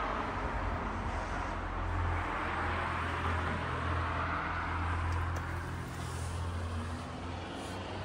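A motor vehicle driving: a steady low engine drone under a hiss of road noise that swells and fades, easing slightly near the end.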